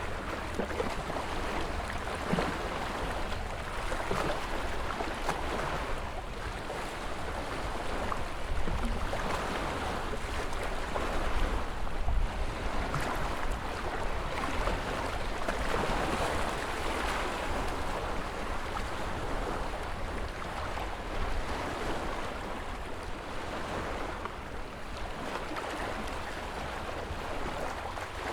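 Ocean waves surging and washing in a continuous noisy wash that rises and falls in slow swells, with scattered splashes and crackles.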